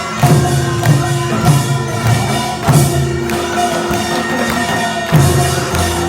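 Korean traditional music accompanying a deotbaegi mask dance: percussion strikes a steady beat, about one and a half a second, under a held, steady melody line.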